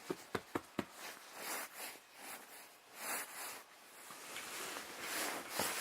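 A few quick clicks at the start, then an angry cat hissing in several short, breathy bursts.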